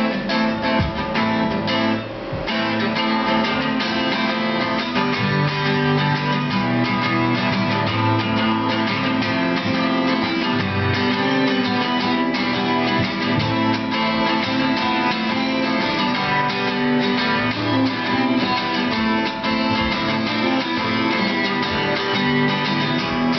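Acoustic guitars playing the instrumental introduction to a song, a continuous run of picked and strummed notes without singing, with a brief dip in volume about two seconds in.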